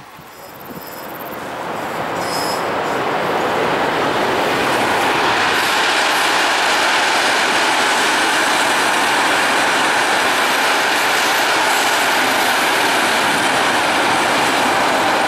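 Freight train of flat wagons loaded with steel coils rolling past, the noise of wheels on rail. It grows over the first few seconds as the train approaches, then holds steady and loud as the wagons go by.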